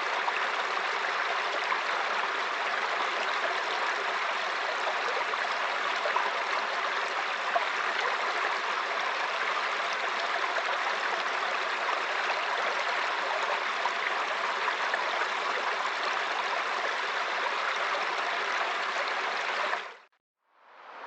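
Steady rush of water from a waterfall. It fades out about twenty seconds in and briefly fades back in just before the end.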